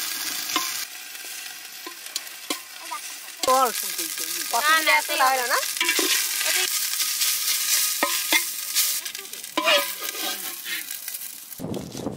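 Chopped leafy greens sizzling as they fry in a metal pot over a wood fire, stirred with a metal spatula that scrapes and clicks against the pot. A few short squeaky calls come in about halfway through. Near the end the sound changes to a stone pestle rubbing and grinding on a stone slab.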